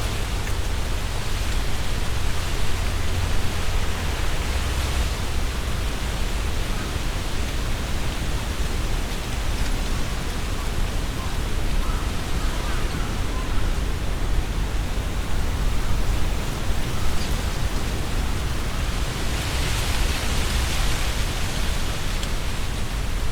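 Strong wind blowing through trees, the leaves rustling and swelling in gusts, loudest about 20 seconds in, over a steady low rumble of wind buffeting the binaural microphones.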